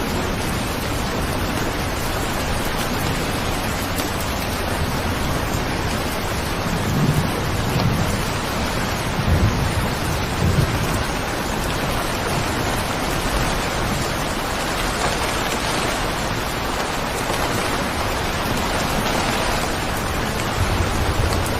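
Steady heavy rain, a dense even hiss, with a few low rumbles swelling up about a third of the way in.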